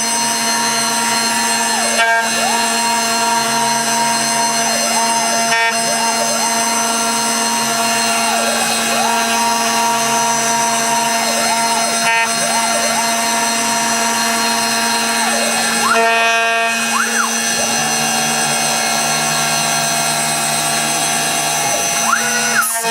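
CNC router carving Karri hardwood on a finish pass: the spindle runs with a steady high whine while the axis motors' pitch rises and falls as the machine moves.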